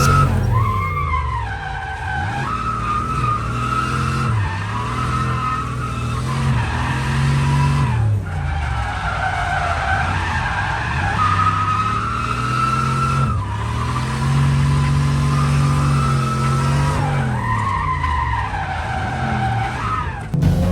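Car engine revving up and down again and again while the tyres squeal through long slides: a car drifting.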